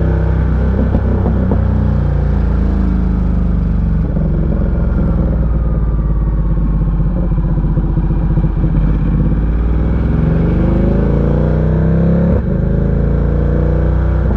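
Ducati Diavel 1260's 1262 cc V-twin running on the road, its pitch falling early on, then climbing again from about ten seconds in. There is a short break in the sound about twelve seconds in.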